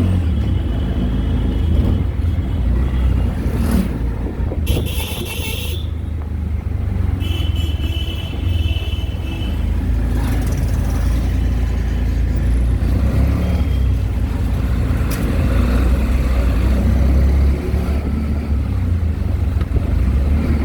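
Auto-rickshaw engine and road rumble while riding through traffic, with horns beeping a few times.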